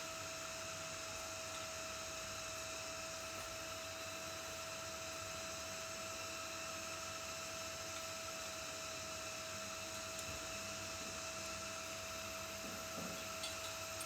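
Steady hiss with a constant high-pitched electrical hum, unchanging throughout.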